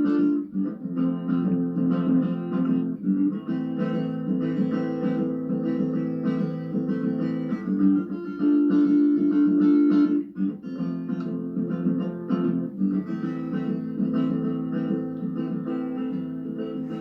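Solo guitar playing a steady chord passage without singing, the chords changing every second or two.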